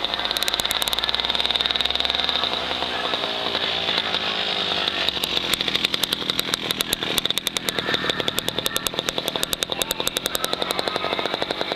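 Racing motorcycle engines running at high revs. From about five seconds in there is a fast, rapid pulsing.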